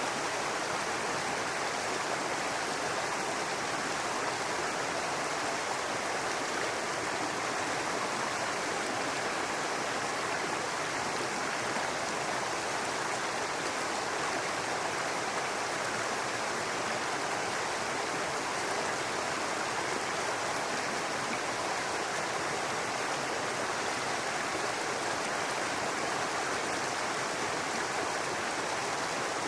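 Brook running steadily: an even, unbroken babbling of flowing water.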